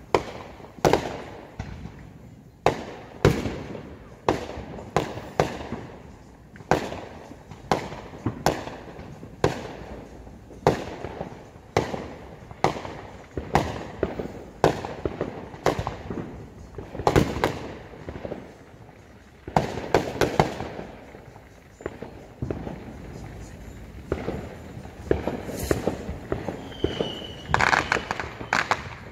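Fireworks going off: an irregular run of sharp bangs, one or two a second, each trailing off in an echo, with a short whistle near the end.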